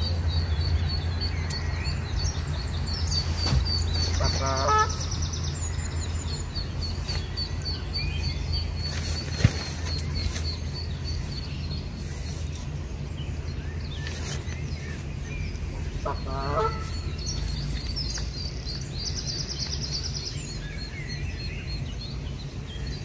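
Wild birds calling: a long series of rapid, high ticking notes, a short high trill twice, and a lower wavering call about four seconds in and again near sixteen seconds, over a steady low rumble.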